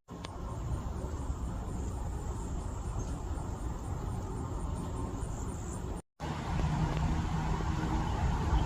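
Outdoor ambience: a steady low rumble with a faint, fast, high insect-like trill over it. The sound drops out briefly about six seconds in and then resumes.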